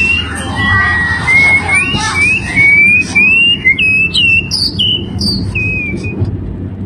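A songbird singing a run of clear whistled notes, some sliding up or down and a few with brief higher notes, fading out near the end, over a low steady rumble.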